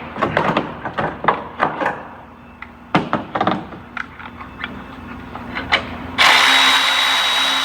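A run of sharp clicks and knocks of hand tools on metal fittings. About six seconds in, a battery power tool starts and runs steadily with a high whine, spinning out a bracket fastener in the car's engine bay.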